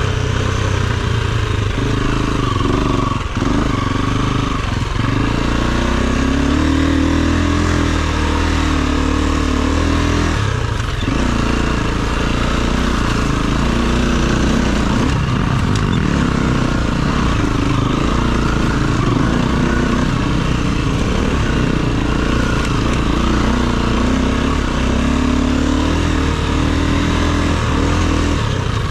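Dirt bike engine being ridden, its revs rising and falling continually with the throttle.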